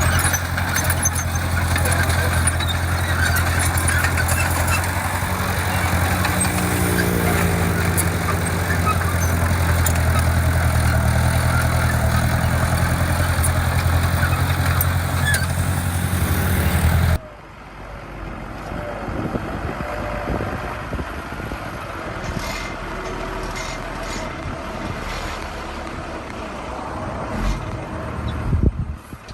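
Heavy construction machine's diesel engine running loudly, with a brief rise in pitch about a quarter of the way in. About two-thirds of the way through, the sound cuts off abruptly to a quieter engine hum, with a few knocks near the end.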